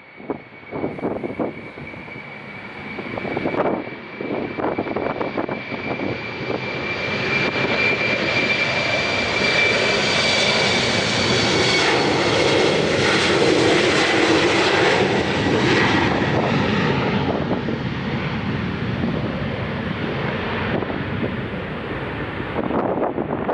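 Jet airliner passing close by, its high engine whine and rushing roar swelling to a peak about halfway through and then fading away. Gusts of wind buffet the microphone at the start and near the end.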